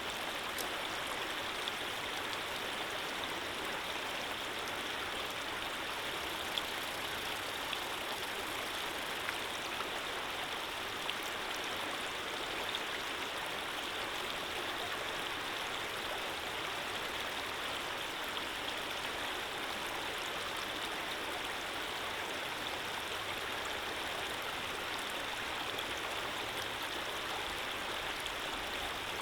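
Running water flowing steadily in an even, unbroken rush, with a few faint ticks and splashes.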